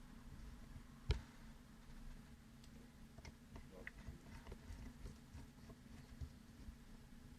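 Quiet handling of small metal parts and tools: scattered light clicks and taps, with one sharper click about a second in, over a faint steady hum.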